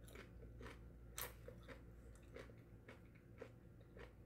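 Faint crunching of a tortilla chip being chewed: irregular crunches about two a second, the loudest a little over a second in.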